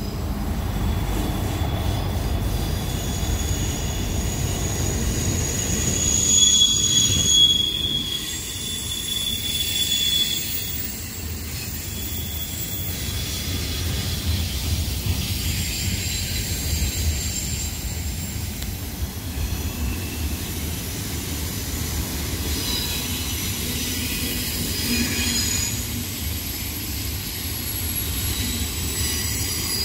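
BNSF freight train rolling slowly uphill through tight curves: steel wheel flanges squealing against the rail in high, ringing tones that come and go, over a steady low rumble of the train.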